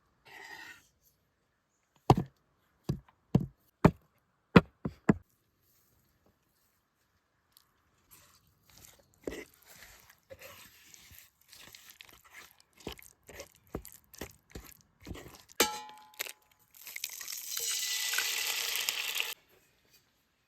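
Seven sharp knife chops on a wooden cutting board, followed by soft scattered tearing and rustling. Near the end comes a steady hiss lasting about two and a half seconds, which then cuts off.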